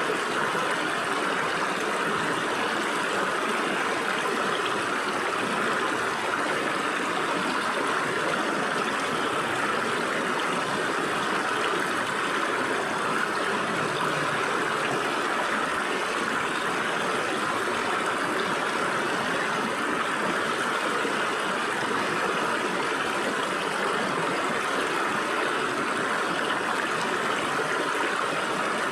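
Stream water running and splashing through gaps between rocks, a steady even rush.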